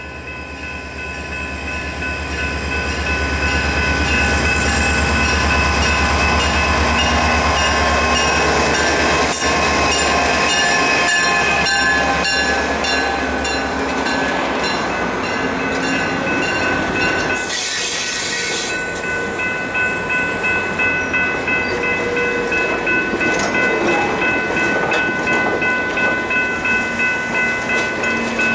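EMD GP20u diesel locomotive rumbling past, then its passenger cars rolling by with an even clatter of wheels, about one and a half beats a second, in the second half. A General Signals Type 3 electronic crossing bell rings steadily throughout, and a brief hiss comes about two-thirds of the way through.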